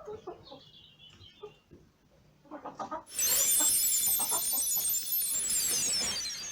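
Domestic hens clucking. About three seconds in, a loud, high, shimmering sound starts suddenly, covers the clucking and fades away near the end.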